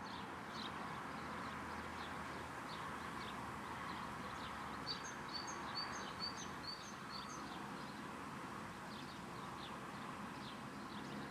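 Small birds chirping over a steady outdoor background hiss, with a quick run of about six clear, high chirps near the middle.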